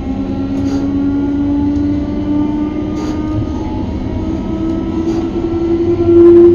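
Class 321 electric multiple unit heard from inside the carriage: traction motor whine slowly rising in pitch as the train gathers speed, over a steady rumble of wheels on the track.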